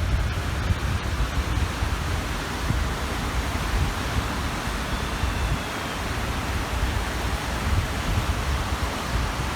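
Waves washing steadily onto the shore of a large lake, a constant rush, with wind rumbling and buffeting on the microphone.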